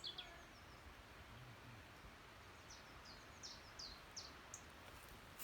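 Faint small-bird chirps: one short high note at the start, then a run of about six short, high, falling chirps about three to four and a half seconds in, over quiet background hiss.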